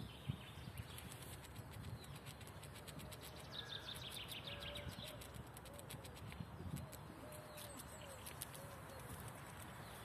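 Quiet spring woodland birdsong: a small bird's quick trill about three and a half seconds in, then a low short call repeated several times through the second half, over scattered faint clicks and crackles.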